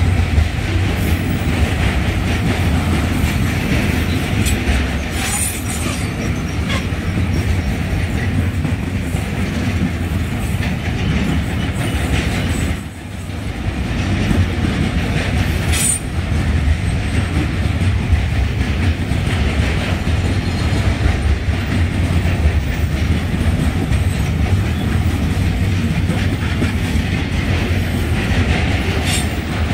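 Container freight train's loaded flat wagons rolling past close by: a steady rumble of steel wheels on rail with a clickety-clack, and a few brief high wheel squeals. The noise dips briefly about halfway through, then picks up again.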